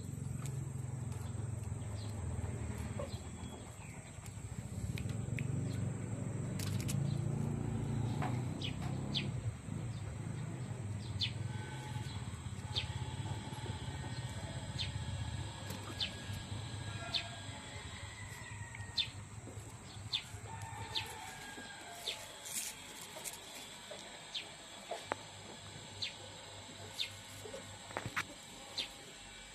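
Birds chirping in short, scattered calls over a low, steady rumble that stops about two-thirds of the way through.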